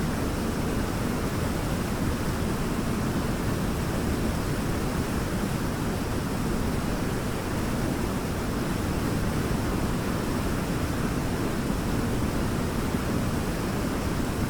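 A waterfall crashing steadily into its pool: an unbroken rush of water, strongest in the low register.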